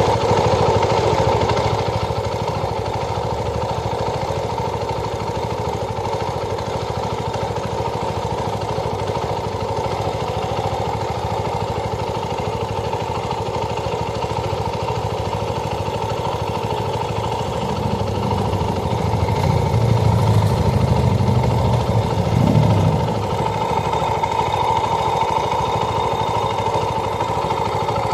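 Motorcycle engine running steadily, growing louder and deeper for several seconds about two-thirds of the way through before settling back.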